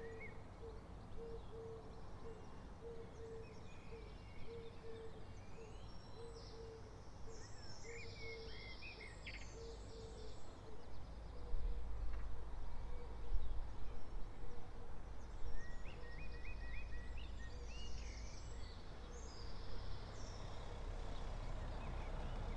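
Early-morning street ambience: songbirds chirping and trilling throughout, with a low tone pulsing a little more than once a second in the first half. From about halfway a low traffic rumble rises and stays.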